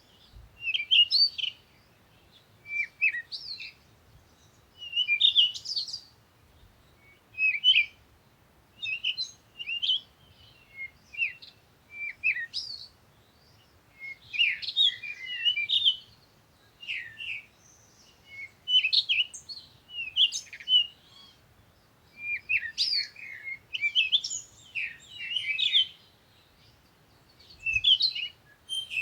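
Songbirds chirping and twittering in short high-pitched bursts, a phrase every second or two.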